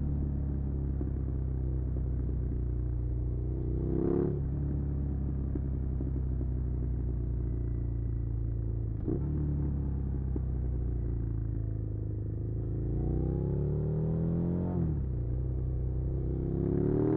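Suzuki SV650's V-twin engine running as the motorcycle is ridden. The revs climb and then drop sharply three times, as through gear changes.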